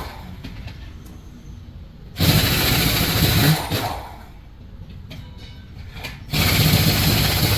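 A handheld power tool run in two bursts of about a second and a half each, some four seconds apart. The pitch falls away briefly as it winds down after each burst.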